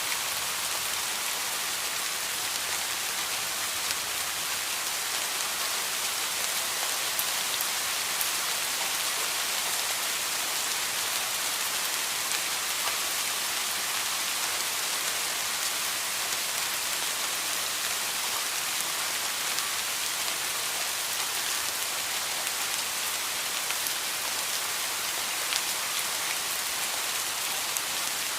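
Heavy rain falling steadily, a continuous even hiss of drops on surfaces with faint individual drop ticks scattered through it.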